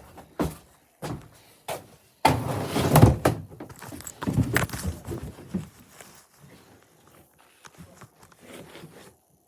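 A series of thumps and knocks, with a louder stretch of clattering and scraping about two seconds in and smaller knocks after it. The sound cuts off suddenly just before the end.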